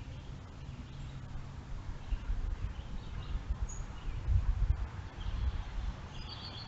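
Faint, short bird chirps, with a small cluster near the end, over an uneven low rumble that is loudest about two-thirds of the way through.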